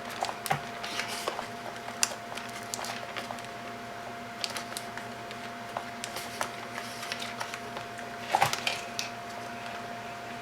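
Scattered small clicks, crinkles and rustles of hands working tape and wires, with a louder cluster of clicks about eight seconds in, over a steady faint hum and a thin steady tone.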